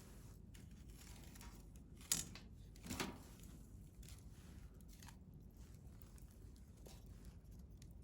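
Wood campfire burning quietly with a few sharp crackles and pops, the loudest about two seconds in and another about three seconds in.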